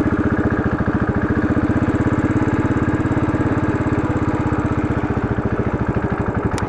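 Royal Enfield Classic motorcycle's single-cylinder engine idling with a steady, even beat. A sharp click comes right at the end.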